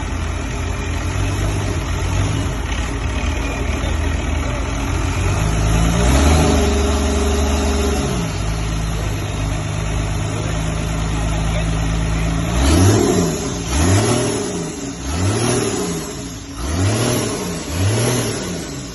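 Freshly rebuilt International DT466 inline-six diesel engine idling, revved up and held for about two seconds, then dropping back to idle. Near the end it is blipped about five times in quick succession, each rev rising and falling.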